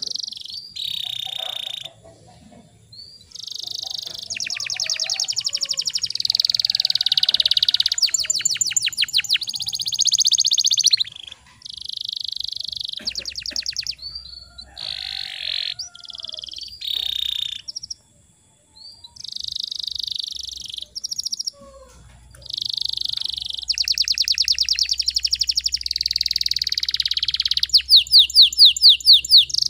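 Domestic canary singing in long phrases of fast trills and rolls, broken by short pauses, with a clear, rapidly pulsed roll near the end.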